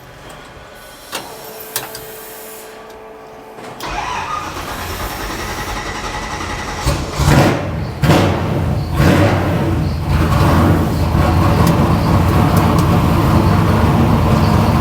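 A 1961 Ford gasser truck's engine being started: from about four seconds in it cranks with a few sharp catches, then fires and settles into steady, loud running.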